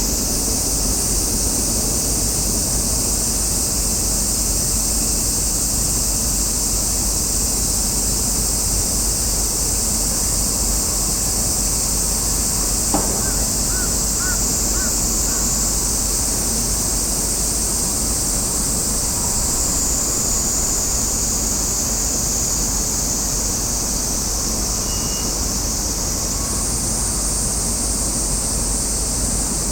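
Steady outdoor noise: a low rumble of wind on the microphone under a steady high-pitched drone, with one short knock about 13 seconds in.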